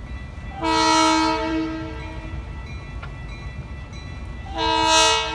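Locomotive air horn sounding two long blasts, a steady multi-note chord, the second starting near the end, over the low rumble of a passing train.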